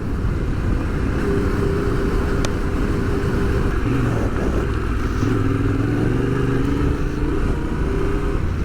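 Adventure motorcycle engine running at low, wavering revs while being ridden along a trail, over a steady rush of wind and tyre noise.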